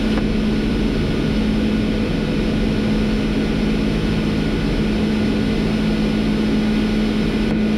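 Steady flight-deck noise of a Boeing 747-400 in its climb: a constant rush of airflow and engine noise with a steady low hum underneath.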